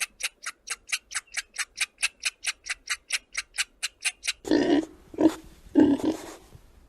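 A rapid, even series of sharp clicks, about five a second, for around four seconds, then three short loud pig grunts.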